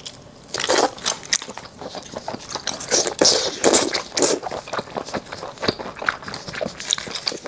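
Close-miked eating: biting and chewing saucy cooked seafood, a dense run of wet smacks and short crunchy clicks.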